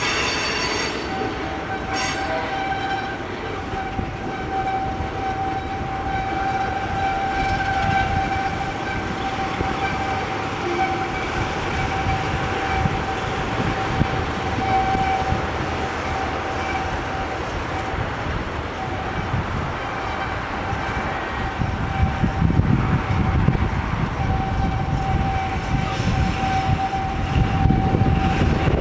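A freight train passing, with rumble and rolling-wheel noise and one steady high-pitched tone held through almost all of it. The rumble grows heavier near the end.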